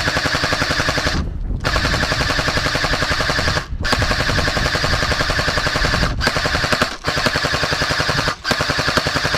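Automatic gunfire in long, rapid bursts, with a few brief breaks between them.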